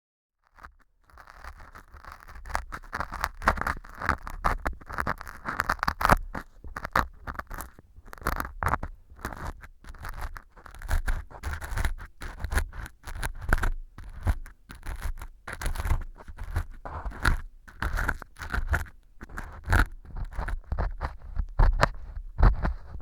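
Ear pick scraping and crunching pieces of fu (dried wheat gluten) glued as fake earwax inside a transparent ear tube: a dense run of crackly scrapes and sharp clicks, with low rumbles from the handling.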